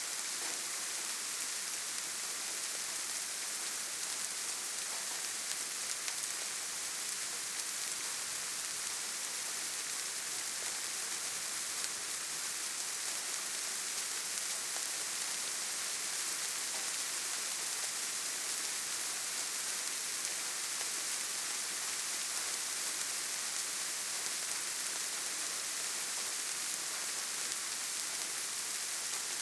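Steady rainfall, an even hiss with small pattering drops.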